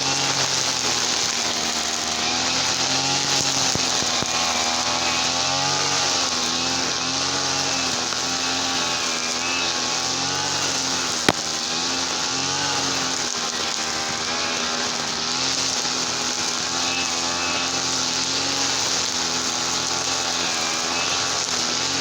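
Small petrol engine of a brush cutter running steadily, its pitch wavering gently up and down every second or two. A single sharp click comes about halfway through.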